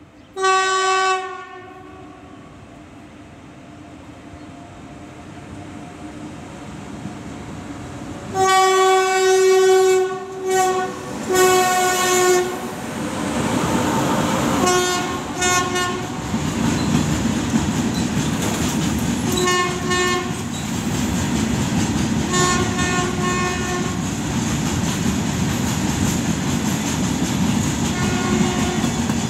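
WAG-9HC electric locomotive sounding its horn repeatedly as the train approaches and passes: a short blast at the start, a long blast and two more soon after, then several pairs of short toots. Under the horn the rumble and clatter of the train's wheels on the rails build up and then hold steady.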